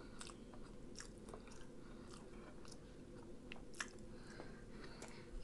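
Faint chewing of rotisserie chicken, with scattered soft mouth clicks and smacks.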